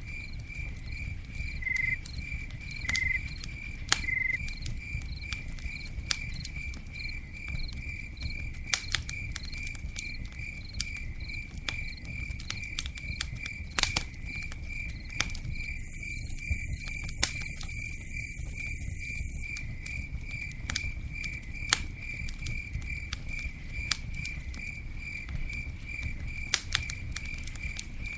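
Campfire crackling, with scattered sharp pops over a low rumble, while a cricket chirps steadily about two to three times a second. A high hiss rises over it for about three seconds in the middle.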